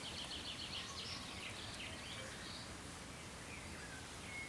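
Faint birdsong: small birds chirping, mostly in the first half, over low steady outdoor background noise.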